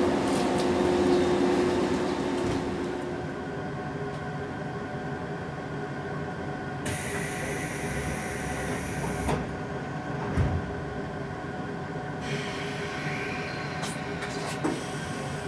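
Steady hum of a JR 185 series electric train's onboard equipment while it stands at the station, louder for the first couple of seconds and then quieter as heard inside a passenger car. Two stretches of high hissing and a few sharp knocks run over the hum.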